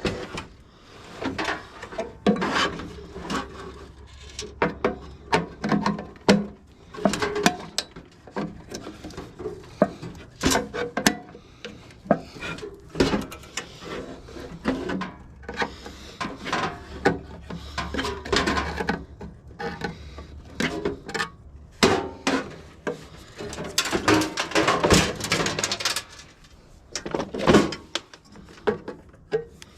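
Parts of a water heater being handled and pulled apart by hand: irregular clanks, knocks and scraping of metal.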